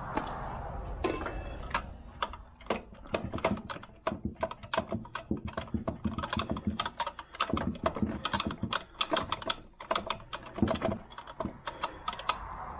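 Hand socket ratchet clicking in quick, irregular runs as it is swung back and forth, driving a bolt.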